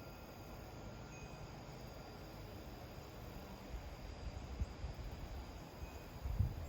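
Quiet outdoor ambience with a wind chime sounding only a couple of faint, brief notes, about a second in and again near the end. Under them is a steady thin high tone, and low rumbling gusts come in over the last few seconds.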